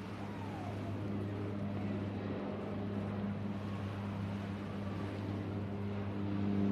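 Boat engine running steadily with a low hum over a wash of wind and water noise.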